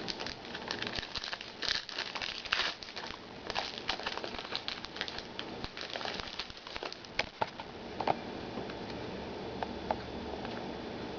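Trading card pack being opened and handled: the wrapper crinkles and tears and the cards click. The crinkling is dense for the first few seconds, then thins to scattered clicks.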